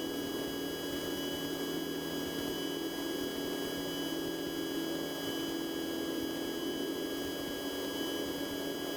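Cessna 150's four-cylinder Continental O-200 engine running steadily at full power during takeoff, a constant drone with thin steady whining tones above it.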